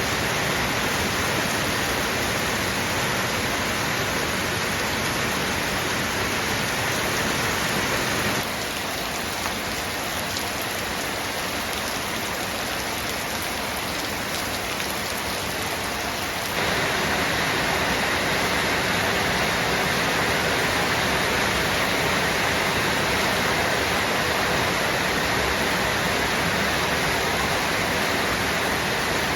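Rain falling steadily, an even rushing noise; it drops a little quieter about 8 seconds in and picks back up about 16 seconds in.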